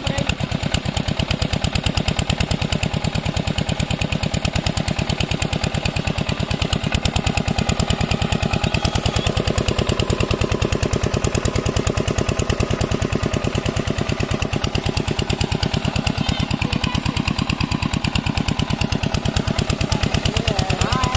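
Diesel engine water pump set (8 hp) running steadily, with a fast, even chugging knock from its firing strokes.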